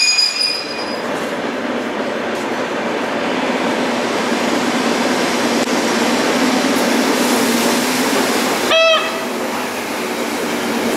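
Hyundai Rotem HRCS2 electric train rolling slowly into the station: a steady rumble of wheels on rail. A high wheel squeal fades out within the first second, and a brief, loud pitched toot sounds about nine seconds in.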